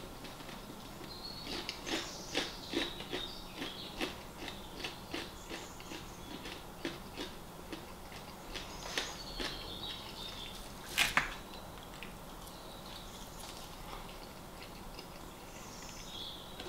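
Close-up chewing: wet mouth clicks and smacks, two or three a second, thinning out later, with one louder click about eleven seconds in.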